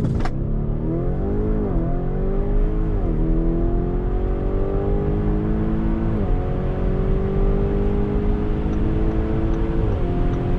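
Lamborghini Urus's twin-turbo V8 under full-throttle acceleration. The engine note rises steadily through each gear and drops sharply at four quick upshifts, each gear pulling longer than the one before.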